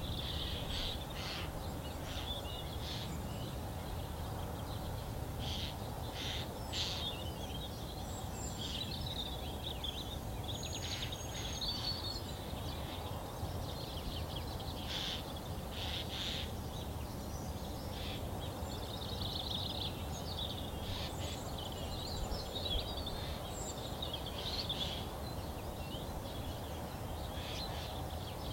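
Several songbirds singing at once: a busy chorus of short chirps, trills and thin whistles, over a steady low background rumble.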